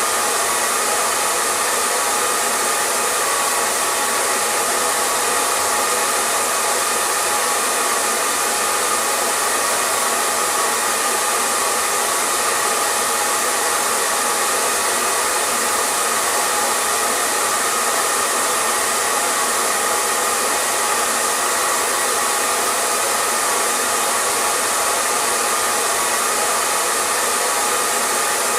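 Hair dryer running steadily, a constant blowing hiss with a faint whine near the middle of its pitch range and no change in speed.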